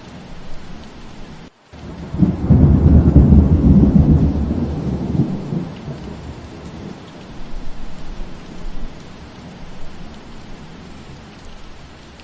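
Steady rain with a loud rumble of thunder that starts about two seconds in and fades away over a few seconds. The sound drops out for an instant just before the thunder.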